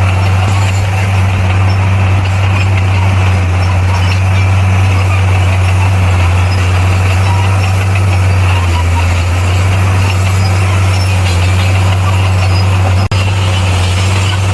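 Bulldozer's diesel engine running with a loud, steady low drone, cutting out for an instant about 13 seconds in.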